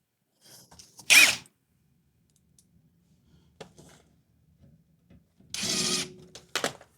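Cordless drill/driver run in two short bursts, about a second in and again near the end, driving screws back into a refrigerator's rear cover panel, with a few small clicks in between.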